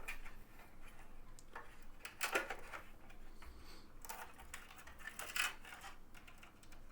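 Irregular rustling and clicking of power-supply cables being handled and pushed into place inside a small metal PC case, with a sharper knock about two seconds in and another about five and a half seconds in.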